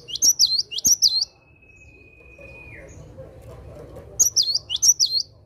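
Cinereous tit (gelatik batu) singing: two bursts of quick, sharp, repeated high whistled notes, one at the start and one about four seconds in, with a thin held whistle between them that dips at its end.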